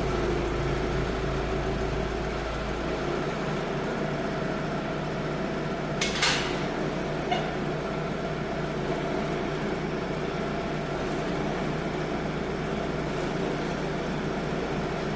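Holder C70 tractor's engine running steadily just after starting. A sharp clack comes about six seconds in and a lighter click about a second later.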